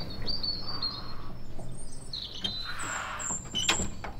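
Small birds chirping in short high calls, and about three and a half seconds in, a sharp knock as a wooden front door is shut.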